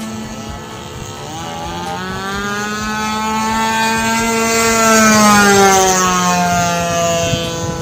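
Model airplane's DLE 20cc single-cylinder two-stroke petrol engine, fitted with a Pitts-style muffler, running at steady throttle as the plane flies by. It grows louder to a peak about five seconds in, then fades as its pitch drops.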